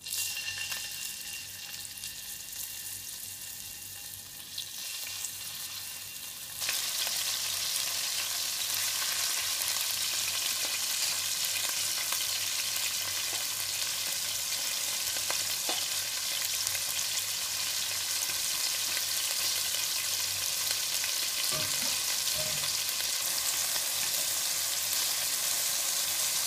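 Chicken breast and chicken liver pieces sizzling as they pan-fry in hot oil in a stainless steel pan. The sizzle starts as the first pieces go in and becomes louder about six and a half seconds in, then holds steady.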